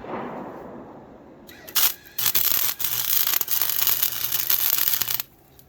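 MIG welder arc crackling as a weld bead is laid to fill holes and a crack in a steel go-kart frame: a brief spark just before two seconds in, then about three seconds of steady crackle with a low electrical hum, which cuts off suddenly.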